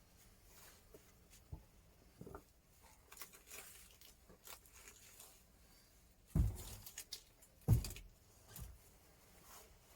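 Intermittent rustling and small knocks from close handling, with two louder dull thumps about six and a half and eight seconds in.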